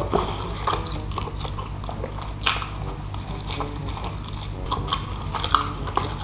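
A person biting into a soft burger and chewing, with many short, irregular wet mouth clicks and smacks over a low steady hum.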